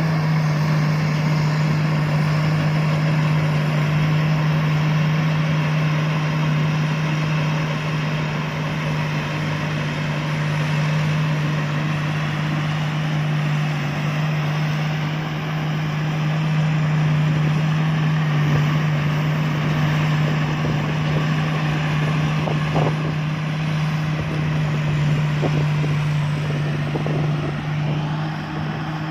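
Combine harvester running steadily, with a strong, even low hum under a dense mechanical rush.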